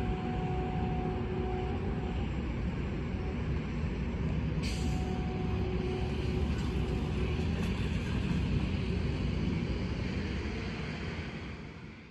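Freight train cars rolling past at a grade crossing, a steady rumble and clatter of wheels on rail, with a faint steady tone that comes and goes and one sharp click about five seconds in. The sound fades out at the very end.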